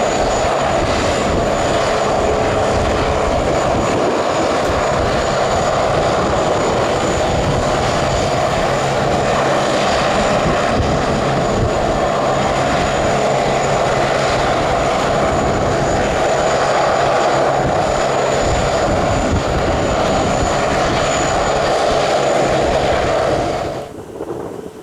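Airliner engines running loud and steady, a thin high whine over a broad rush. The sound breaks off abruptly near the end.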